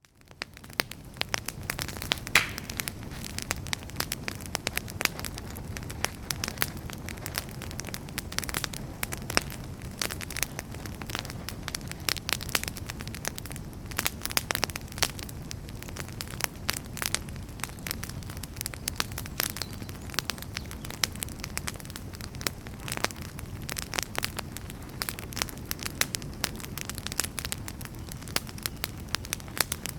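Wood fire crackling in a fireplace: dense, irregular pops and snaps of burning logs over a steady low rumble of the flames. The sound fades in from silence at the very start.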